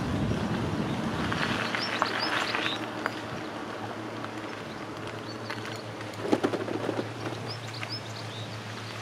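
Birds chirping in quick rising notes, in two bursts, over a steady low hum from the moving bicycle. A brief rattle comes about six seconds in.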